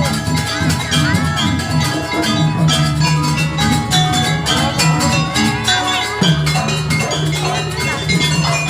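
Live Javanese jaranan accompaniment music: tuned metal gong-chime percussion and drums playing a dense repeating pattern over a strong low held tone.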